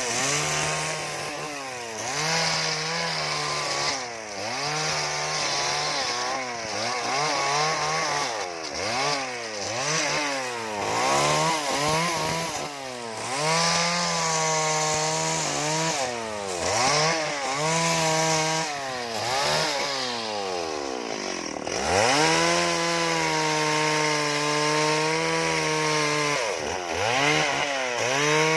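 Chainsaw cutting into wood, its engine revving up and falling back over and over, about once a second. About three quarters of the way through it drops low briefly, then revs back up.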